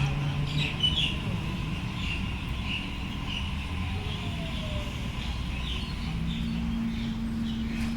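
Birds chirping in short repeated calls over a steady low hum and rumble, with a low drone that fades about half a second in and another that starts near the end.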